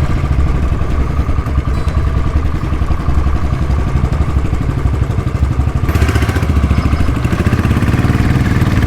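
Motorcycle engine running steadily under way as the bike is ridden, a low pulsing rumble with wind noise on the microphone. About six seconds in, the sound grows brighter and stronger.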